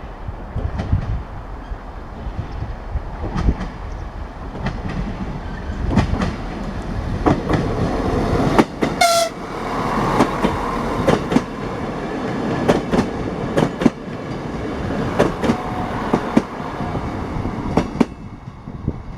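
A train rolls along the track, its wheels clicking over the rail joints with a steady rumble. About nine seconds in, its horn gives one short high toot.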